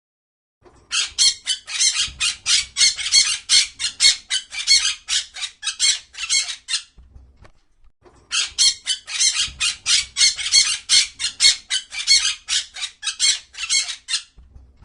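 A bird squawking in fast, harsh, repeated calls, about three or four a second, in two long bouts with a short break about seven seconds in.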